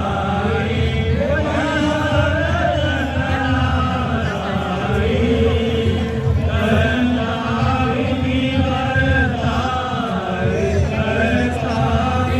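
Voices chanting a continuous, melodic sung line with music.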